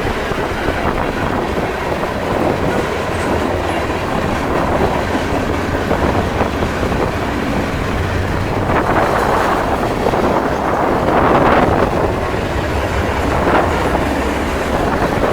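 A train passing on the tracks, its wheels running on the rails, with wind blowing on the microphone. The sound swells twice in the second half.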